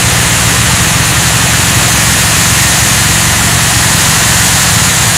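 Loud, steady running of an engine or motor: a low hum under a hiss, unchanging throughout.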